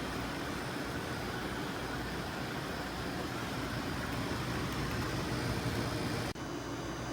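Portable air conditioner running steadily: a rush of fan air over a low compressor hum, with a brief break about six seconds in.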